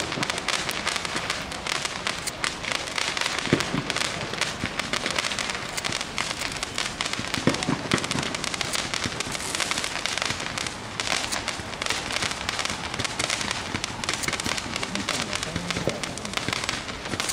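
Fireworks going off in a steady, dense crackle of many small pops, with a few louder bangs mixed in.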